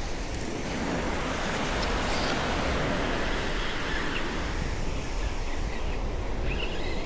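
Surf washing on the beach, with wind buffeting the microphone as a steady low rumble.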